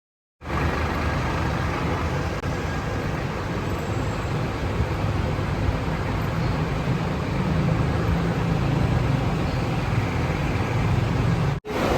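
Steady low rumble of road vehicles, with no revving. It starts a moment in and drops out for an instant near the end.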